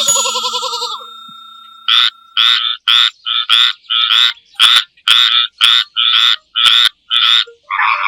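An animal calling in a fast, even series of about a dozen short, rasping calls, roughly two a second, preceded by the fading end of a longer pitched call.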